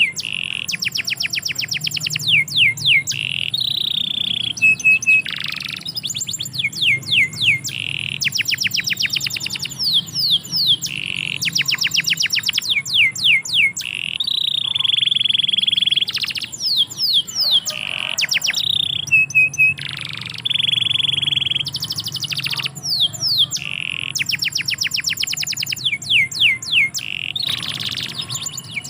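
Domestic canary singing in long phrases of fast trills, rapid down-sweeping notes and short held tones, the phrases following one another with brief breaks.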